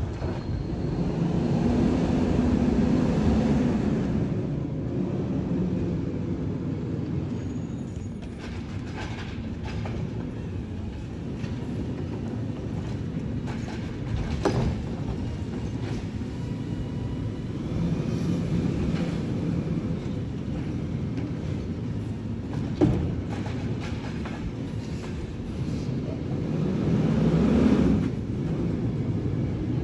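Garbage truck working: a low diesel rumble that swells three times, with two sharp clunks in the middle.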